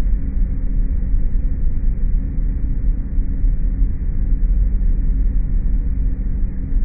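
Steady low mechanical drone of a machine used in stair repair works, which the uploader takes for a compressor-type device, played back slowed down. It holds an even hum with several steady low tones and no breaks.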